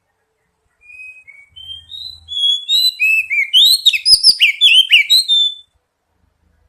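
Oriental magpie-robin song: a run of clear whistled notes that step up in pitch, building into loud, rapid downward-sweeping notes before stopping abruptly about five and a half seconds in. Two soft thumps sound near the loudest part.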